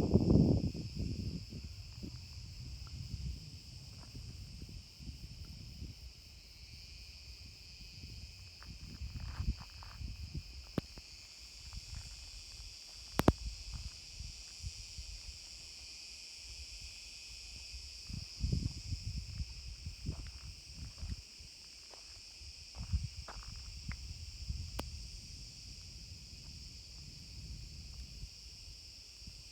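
Steady insect chorus, a continuous high-pitched hum, with irregular low rumbles and knocks and one sharp click about thirteen seconds in.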